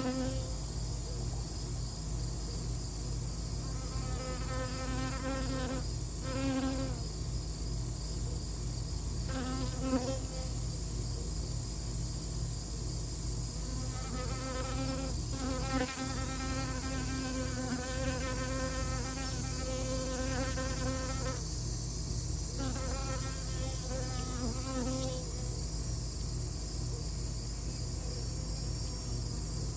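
A flying insect buzzing in several separate passes, each lasting from about a second to several seconds, with the pitch wavering slightly. Under it runs a steady high chorus of crickets.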